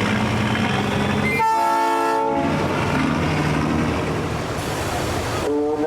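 An air horn gives one steady blast of about a second over the low, steady running of engines. Another pitched tone starts near the end.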